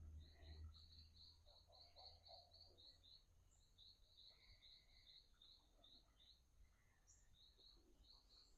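Near silence outdoors: faint, rapid high chirps from a small animal, about four a second, pausing briefly near the end, over a faint steady high-pitched hum.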